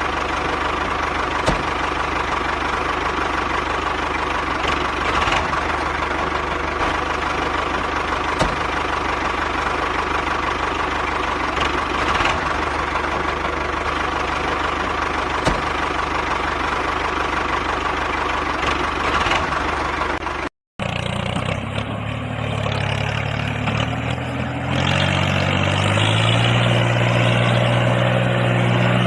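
Small motor-driven machine running steadily with a continuous whine. About two-thirds of the way in the sound cuts out for an instant and a different steady hum with a lower, fuller drone takes over and grows louder.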